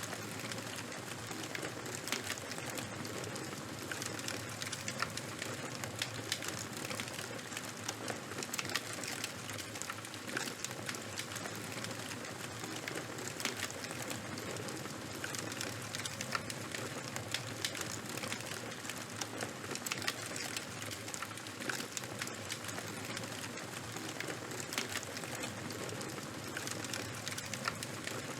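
Charcoal and wood fire burning: a steady hiss with frequent small crackles and sharp pops.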